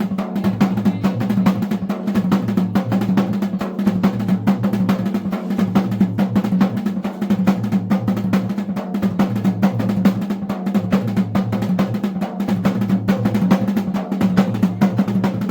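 Traditional Garhwali dhol-damau drumming for a mandan, a fast, continuous beat of rapid strokes with no break.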